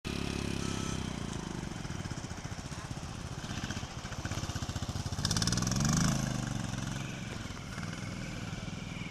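Motorcycle engine running while riding, with a steady low drone; the engine note swells and rises in pitch about five seconds in, then falls back and settles.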